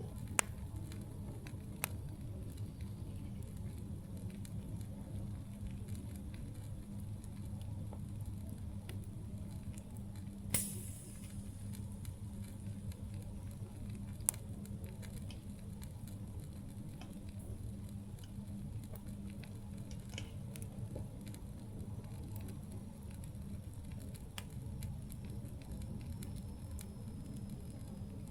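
Campfire burning with a steady low rumble and scattered sharp crackles and pops, a few of them louder.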